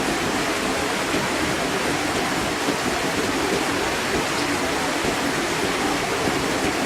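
A garden fish pond's waterfall running, water pouring and splashing steadily into the pond.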